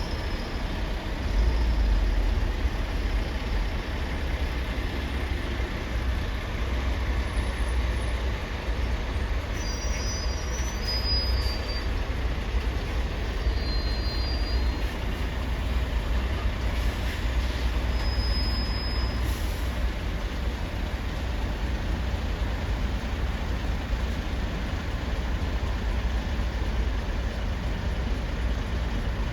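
Heavy trucks running at a port, a steady low rumble with a few faint short high squeaks around the middle.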